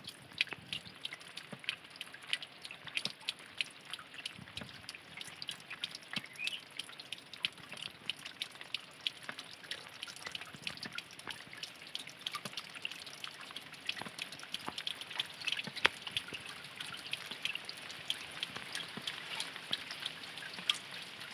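Spring water trickling and dripping down a small rocky cascade: a steady watery hiss dotted with many sharp, irregular drips and splashes.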